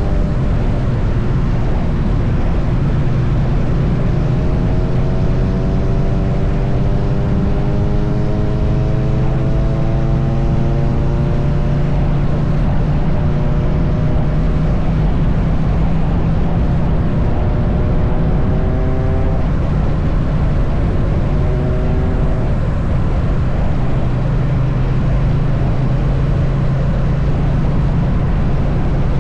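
Triumph Bonneville T100's parallel-twin engine running at steady highway cruising speed, under heavy wind and road rush. A higher droning tone climbs slowly for several seconds, breaks off about two-thirds of the way through and briefly returns.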